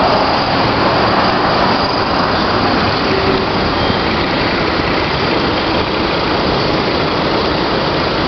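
Loud, steady running noise of a 2000-horsepower speedboat's engines.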